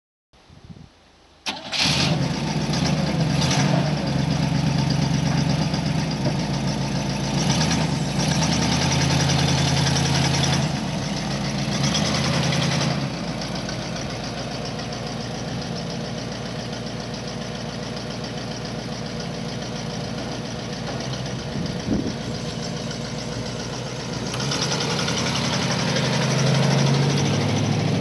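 1960 Cadillac Series 75 limousine's 390 V8, a long-dormant engine running again, starts about a second and a half in and runs at a fast idle. About halfway through it settles to a quieter, steady idle, and it grows louder again near the end.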